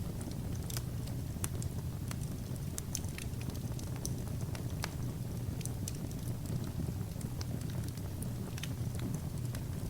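Wood fire burning, with a steady low rumble and frequent irregular crackles and pops.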